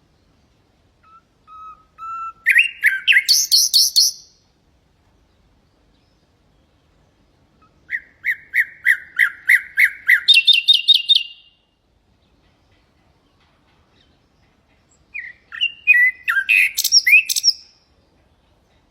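Nightingale singing three separate song phrases a few seconds apart, each made of fast runs of repeated notes. The middle phrase is a rapid series of about a dozen strokes that jumps to a higher pitch partway through.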